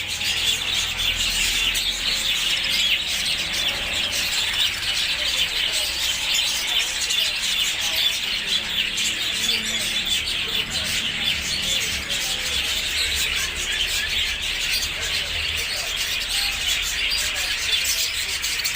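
A flock of Australian parrots chattering, a dense and continuous mass of overlapping chirps and tweets.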